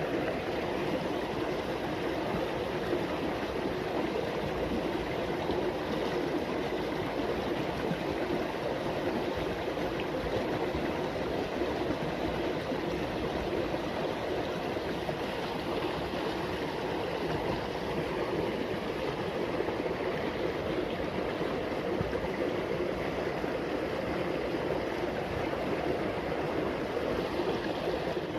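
Water flowing steadily along a small irrigation ditch, an even rushing, gurgling flow with no breaks.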